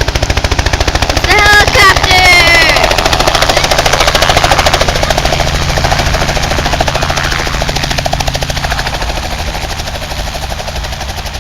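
Helicopter running close by, its rotor beating in a rapid, steady chop that slowly grows quieter over the second half. A high voice calls out briefly about two seconds in.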